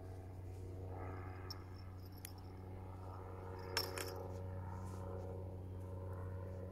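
A few light metallic clinks, the sharpest a little past halfway, over a steady low hum.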